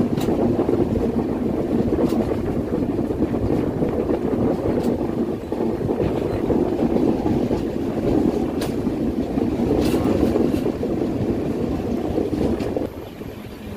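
Indian passenger train running at speed, heard from an open coach door: a steady rumble of the wheels on the rails mixed with rushing wind on the microphone, with a few faint clicks. The sound drops sharply in level about a second before the end.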